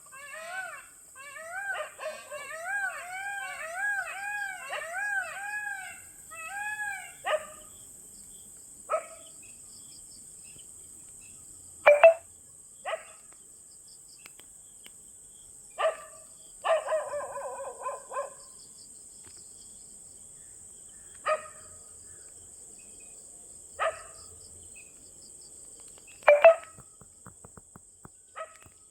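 A dog crying in a quick run of rising-and-falling yelps, about two a second for the first several seconds. After that come single sharp barks every few seconds, with a short cluster of calls about 17 seconds in.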